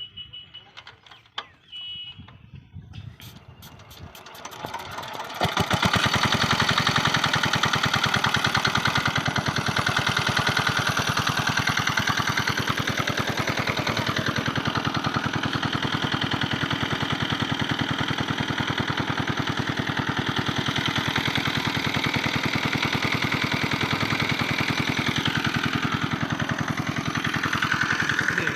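Diesel water-pump engine being turned over, its strokes quickening, then catching about five seconds in and running steadily with a fast, even chug.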